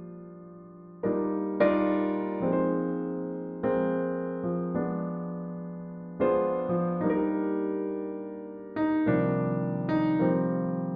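Soft jazz on electric piano: slow chords, each struck and left to ring and fade before the next.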